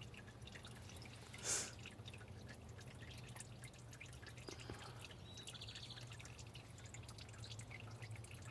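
Faint irregular dripping and ticking over a steady low hum, with one short hiss about one and a half seconds in.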